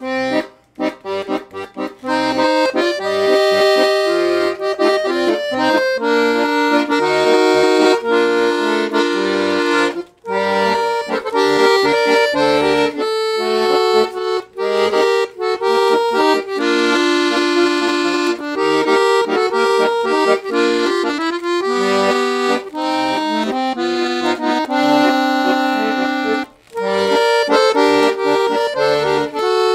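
Parrot Peacock piano accordion with three sets of reeds (low, middle, middle) being played: a melody of held notes on the treble keys over a steady accompaniment on the bass buttons, with a couple of brief breaks.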